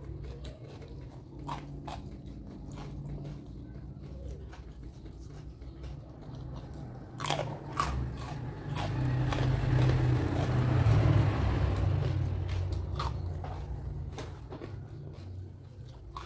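Close-up chewing and crunching of raw vegetables, with sharp crunching bites scattered throughout. A low hum runs underneath, swelling louder around the middle before easing off.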